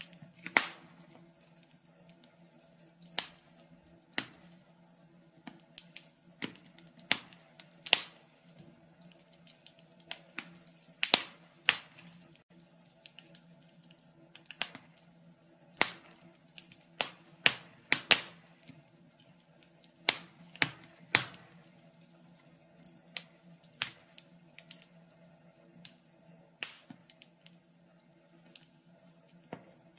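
Burning logs in a fireplace crackling, with irregular sharp pops and snaps, a few every couple of seconds and some much louder than others. A faint steady low hum runs underneath.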